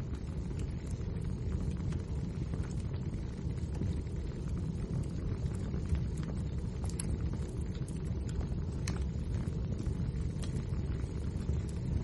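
Wood fire burning in a fireplace: a steady low rumble with small crackles and pops scattered throughout, a few of them sharper.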